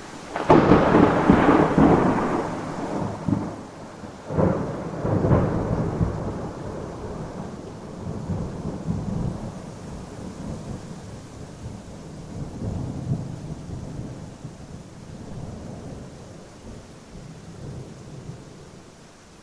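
A thunderclap about half a second in, followed by rolling rumbles with two more cracks around four and five seconds in. The rumble dies away slowly over steady rain.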